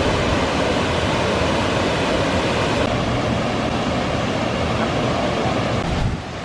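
Steady roar of a waterfall in heavy flow: dense rushing water with a deep rumble underneath. It dips briefly near the end.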